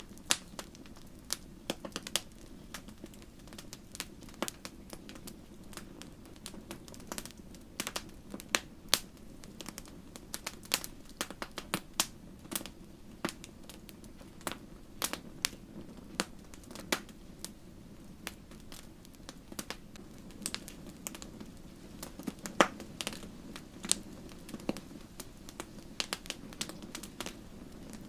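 Wood fire crackling: frequent irregular sharp pops and snaps over a steady low rush of burning flames.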